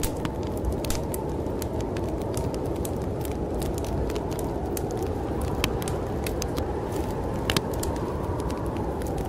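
Wood fire crackling, with sharp irregular pops, over a steady low rush of snowstorm wind.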